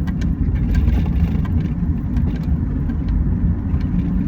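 Steady low rumble of a car in motion, with a few faint clicks.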